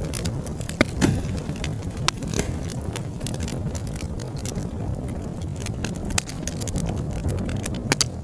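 Wood fire burning in a fireplace: a steady low rumble of flames with frequent sharp crackles and pops, a few of them louder, about a second in, near two seconds and near the end.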